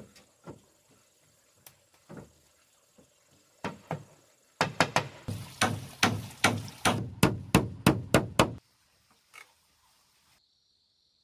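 Hammer blows on wood: a few scattered knocks, then a fast run of strikes at about four a second for some four seconds. A steady insect drone comes in near the end.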